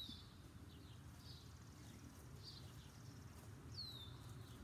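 Faint outdoor quiet with songbirds calling: a few short high chirps and two clear downward-sliding whistles, one at the start and one near the end.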